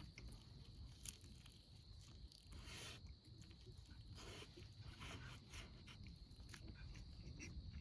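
Near silence: faint low background rumble with a few soft clicks and brief rustles.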